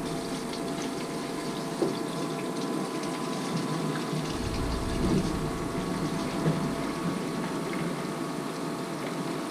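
Small electric fuel transfer pump running with a steady hum, pumping diesel into the heater's fuel tank with the sound of the fuel pouring in.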